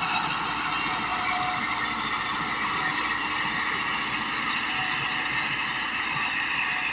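Massey Ferguson 375 tractor's diesel engine running steadily at a constant speed.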